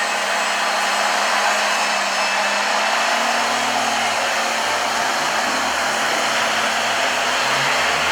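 Electric motors and gearboxes of radio-controlled model construction machines running, a steady whirring whine with a faint low hum.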